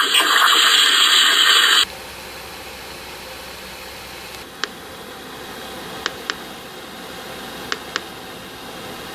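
Presented 'space sound' audio: a loud crackling hiss that cuts off suddenly about two seconds in. It gives way to a quieter, steady hiss with a low hum, broken by a few sharp clicks, two of them close together twice.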